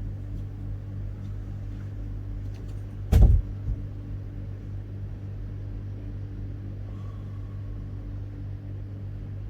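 A vehicle engine running steadily at an even low hum, with one loud thump about three seconds in.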